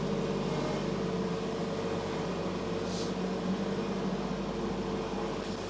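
Farm tractor engine running steadily at a constant speed, with a brief faint hiss about three seconds in.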